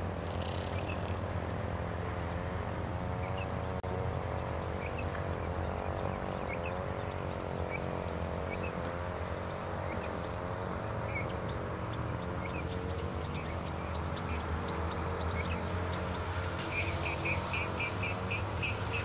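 Small birds chirping over a steady low hum, the chirps coming in a quicker run near the end.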